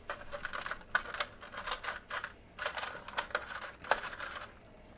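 Irregular small clicks and taps of wires and connectors being handled and pushed into place in a metal fluorescent shop-light fixture during ballast wiring. The clicks thin out near the end.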